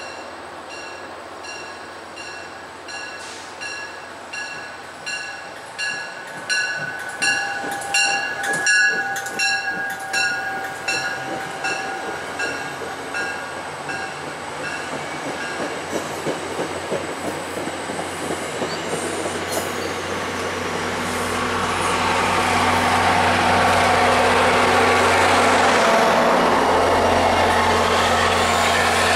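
Departing MBTA commuter train: a train bell rings in a steady rhythm, about two strikes a second, over the rumble of wheels on the rails. In the second half the pushing MP36PH-3C diesel locomotive passes close, and its engine's low rumble and noise build up and stay loud.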